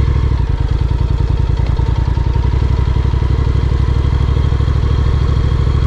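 Honda NC750X motorcycle's parallel-twin engine running steadily, with an even, rapid low pulse from its firing.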